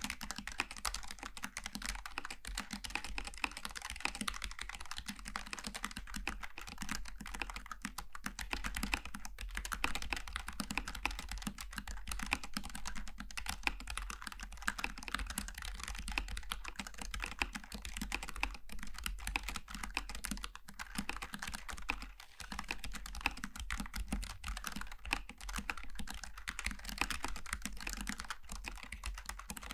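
Continuous fast typing on a Logitech G915 TKL low-profile mechanical keyboard with tactile GL switches: a dense, steady stream of key clicks with one brief pause about two-thirds of the way through.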